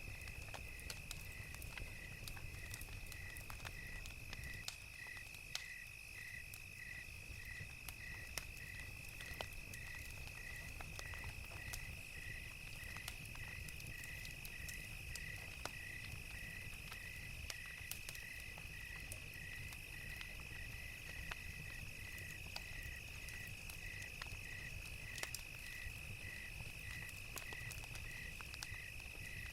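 Crickets chirping in an even, slow rhythm of about one and a half chirps a second over a steady high insect trill, with scattered crackles and pops of a wood fire and a low rumble underneath.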